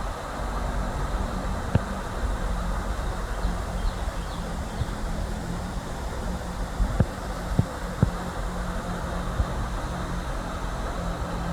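Steady rush of a small waterfall, with the RZR side-by-side's engine idling low underneath and a few short knocks now and then.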